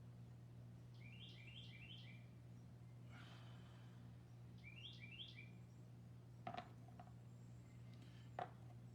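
Faint wild birdsong in a quiet backyard: two short runs of three quick falling chirps, about a second in and again about five seconds in, over a steady low hum. Two faint clicks come near the end.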